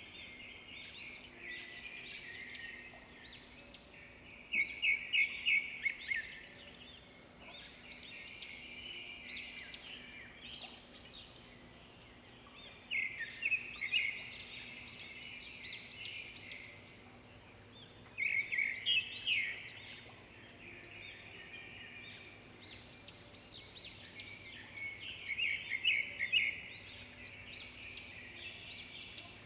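Rainforest ambience: many birds calling and chirping over each other, with a loud run of rapid chirps four times.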